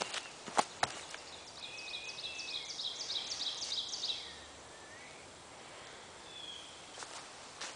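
A bird singing: a run of quick, repeated, high down-slurred notes with warbling lower notes, lasting about three seconds. A few sharp clicks or knocks come near the start, the loudest of them before the song, and a few more near the end.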